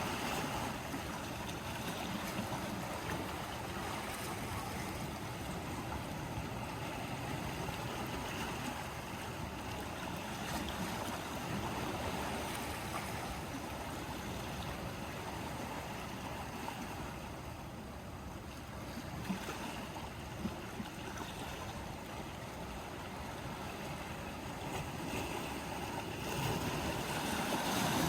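Sea waves washing onto the shore, a steady rush of surf that eases about two-thirds of the way through and builds again near the end.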